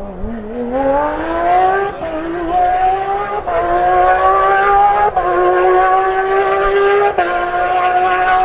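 Rally car engine pulling hard out of low revs and accelerating up through the gears, its pitch climbing and then dropping briefly at each of four quick upshifts.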